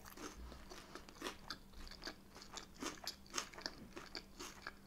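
A person chewing a mouthful of plant-based chicken-style burger with lettuce and onion: a run of faint, irregular short clicks of chewing.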